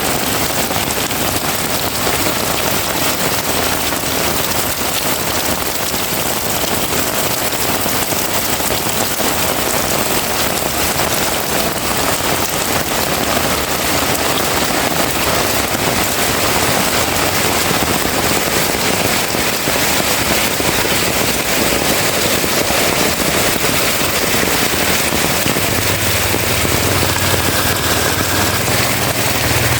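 Heavy rain pouring steadily: a dense, even hiss of drops beating on surfaces. A low steady hum comes in near the end.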